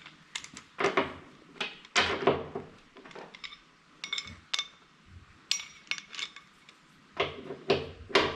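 Metal hand tools, bolts and washers clinking and knocking irregularly while axle bolts are being fitted and tightened, a few strikes ringing briefly.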